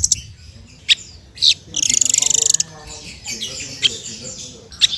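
Songbird singing on a masteran song-tutor recording: sharp, high whistled notes, with a fast rattling trill of about a second starting a little under two seconds in and more short notes near the end.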